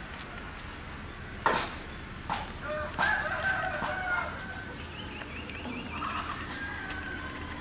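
A sharp crack about one and a half seconds in, then a bird's long, drawn-out calls, followed by a shorter wavering call.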